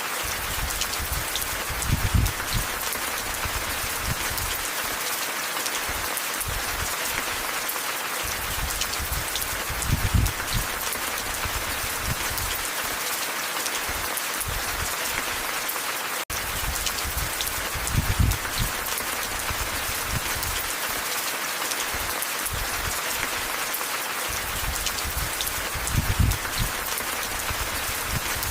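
Steady rain falling, a dense hiss of drops, joined by a short low rumble about every eight seconds, four times in all. The sound cuts out for an instant about halfway through.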